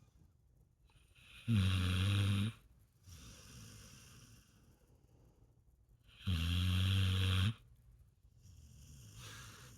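Dog snoring: two loud, pitched snores about five seconds apart, each lasting about a second, with quieter breathing between them.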